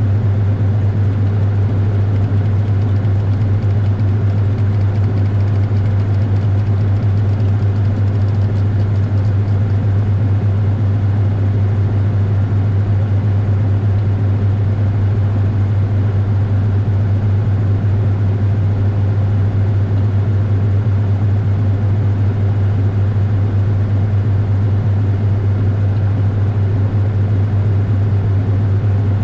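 Washing machine running at a steady speed with a loud, unchanging low hum, picked up by a camera inside the drum.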